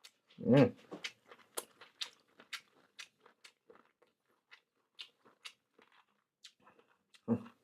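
Someone eating marinated chicken feet close to the microphone: many small crunching, smacking bites and chewing clicks, with two louder short sounds about half a second in and near the end.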